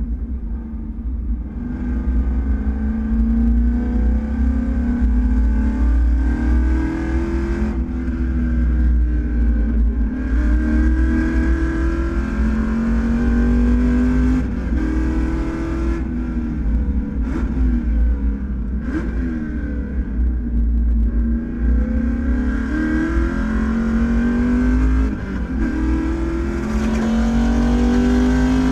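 Race car engine at full throttle, climbing through the revs and dropping in pitch at each gear change, over and over, with a few quick rev blips in the middle. A heavy low rumble runs beneath it.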